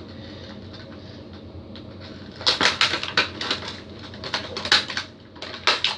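Plastic toy packaging being handled and worked open: after a couple of seconds of faint steady room noise, a run of sharp crinkles and clicks.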